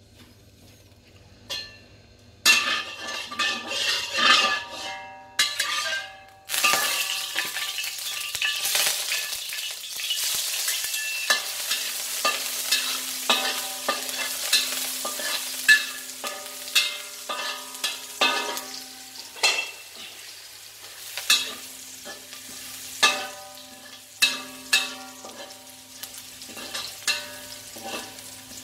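Minced garlic frying in hot oil in a carbon-steel wok: a steady hissing sizzle, with a metal wok spatula scraping and clinking against the wok as it is stirred. The sizzle breaks out suddenly a few seconds in.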